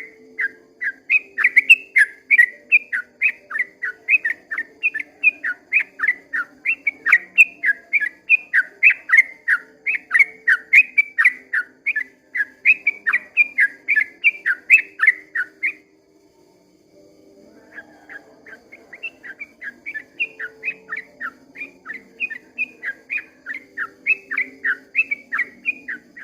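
Yellow-vented bulbul singing a long, fast run of short whistled notes, about three a second; it breaks off for about a second and a half past the halfway point, then starts again softer and builds back up.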